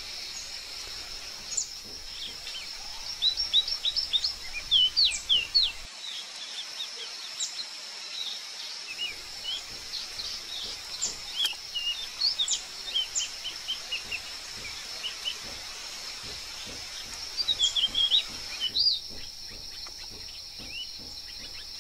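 Small forest birds giving scattered short, high chirps and quick rising and falling notes, with bursts of several in quick succession, over a steady high-pitched insect drone.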